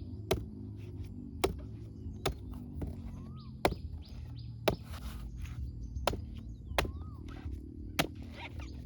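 Wood being chopped: a series of sharp, single strikes, roughly one a second at an uneven pace, with birds chirping now and then.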